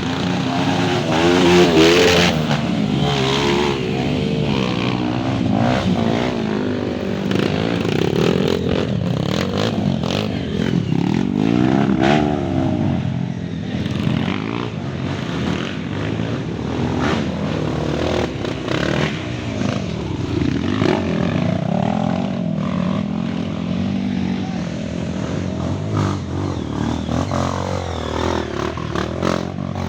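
Several off-road trail motorcycles revving hard, their overlapping engine notes repeatedly rising and falling in pitch.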